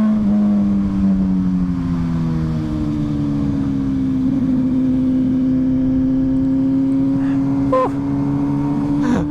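MV Agusta Superveloce motorcycle's engine running at steady cruising revs under way. Its pitch sags slightly over the first few seconds and then holds, with wind noise under it.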